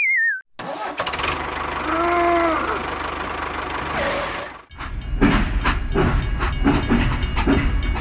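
A mechanical clatter with a brief arched tone about two seconds in cuts off abruptly, and an engine takes over, chugging with a regular beat.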